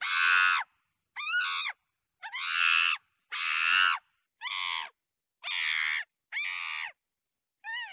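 A monkey screaming in a series of about eight short, high-pitched calls. Each call lasts under a second, with its pitch arching up and down, and silent gaps fall between them.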